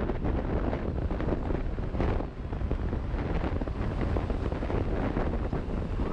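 Wind buffeting the microphone of a camera on a moving motorcycle: a steady, loud low rumble with no clear engine note.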